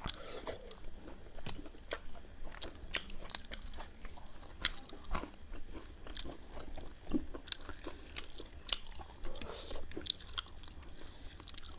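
Close-miked chewing and biting of food, with irregular wet clicks and crunches several times a second.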